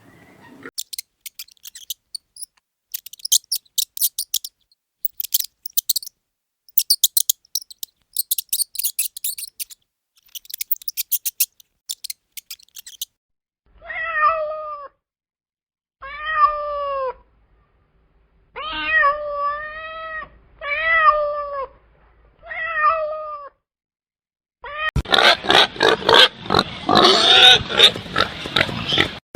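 A cat meowing six times, each call about a second long, rising then falling in pitch. Before the meows come bursts of rapid, high-pitched clicking, and near the end a sudden loud, dense noise starts.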